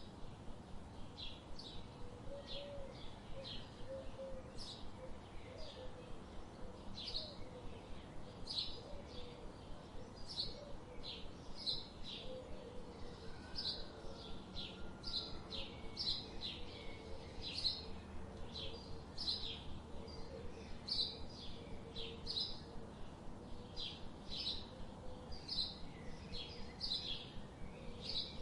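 Small birds chirping: short, high, sharp chirps repeating steadily, about two a second, with a faint lower warbling underneath.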